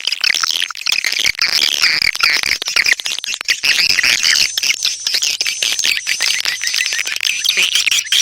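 Swiftlet calling-sound recording: a dense chorus of swiftlet chirps and twitters mixed with fast clicking, the kind of lure call played to draw swiftlets into a nesting house. A faint steady low hum comes in about halfway.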